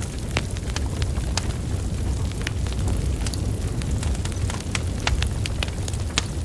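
Wood fire burning: logs crackling with irregular sharp pops and snaps, over a steady low rumble of flames.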